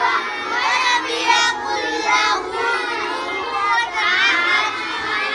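Many children reciting aloud at the same time, each chanting their Ampara (Quran primer) lesson in a sing-song voice, so the voices overlap into a continuous din.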